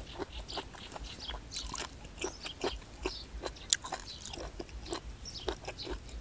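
Close mouth sounds of chewing and biting on crunchy puffball mushrooms (hed phaw), an irregular run of short crisp crunches and clicks, several a second.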